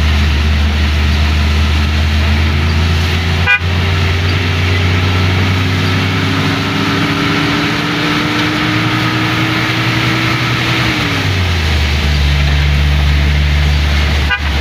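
A 1970s Mitsubishi Colt's engine running inside the cab while driving on a wet road. The engine note rises slowly as it gathers speed, then drops away about eleven seconds in, over a steady hiss of rain and wet tyres. There are two brief clicks, one a few seconds in and one near the end.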